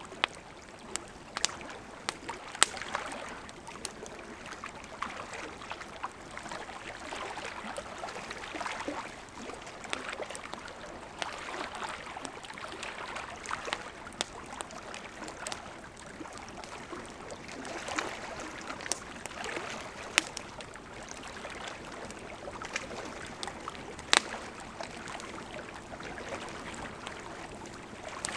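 Wood campfire burning: a steady hiss of flames with scattered sharp crackles and pops, a few of them much louder snaps.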